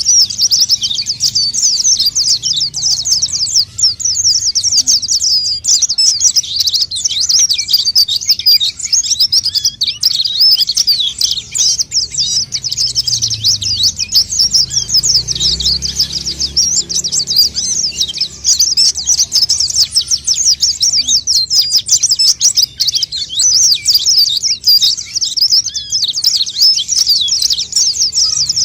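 White-eye (pleci) song: a dense, high, rapid twittering that runs on without a break. This is the vigorous 'gacor' song used as a lure call for wild white-eyes.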